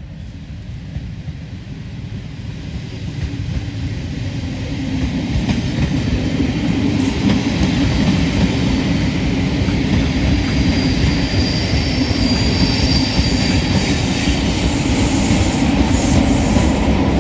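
A 4TC push-pull train propelled by a Class 33 diesel locomotive, approaching and running past. Steel wheels rumble and click over the rail, growing louder over the first seven seconds and then staying loud, with a faint high wheel squeal in the middle.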